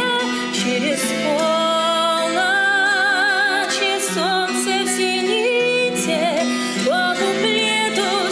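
Pop song with a woman singing held notes with vibrato over a steady accompaniment.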